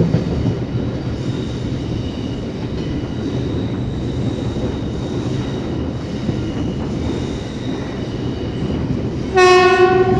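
An Indian Railways passenger train running, heard from an open coach window: a steady rumble of wheels on the track. About nine seconds in, a train horn gives one loud blast lasting about a second.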